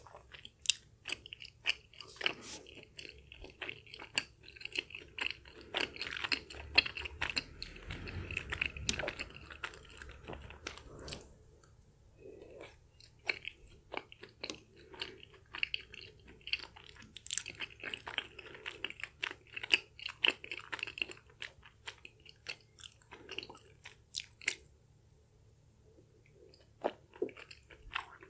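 Close-up chewing of chewy, sticky Korean spicy rice cakes (tteokbokki): wet, sticky mouth sounds with many sharp clicks, pausing briefly near the end.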